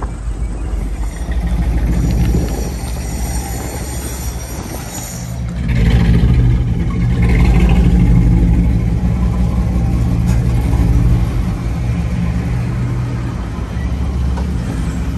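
1958 Chevrolet Impala's engine running while the car drives, with road and wind noise. About five seconds in, the exhaust note becomes louder and deeper, steady with small swells, as the engine runs close up.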